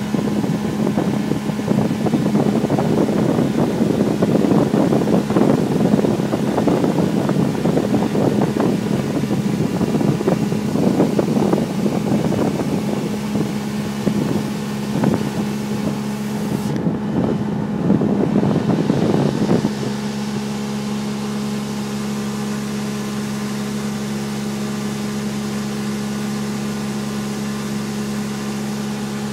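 A boat motor runs with a steady, even hum. For the first twenty seconds a loud, choppy rushing noise, like wind and water, covers it. Then the rushing stops abruptly, leaving only the hum.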